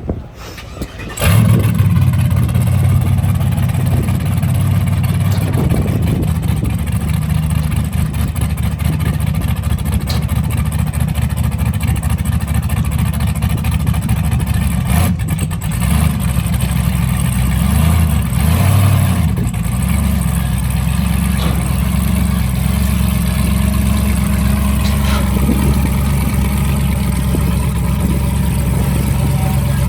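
A race vehicle's engine starts about a second in and idles steadily, with a brief rise in revs a little past halfway.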